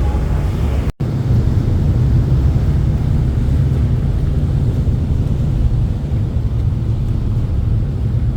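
Car ferry's engines running with a steady low drone, cut off for a split second about a second in.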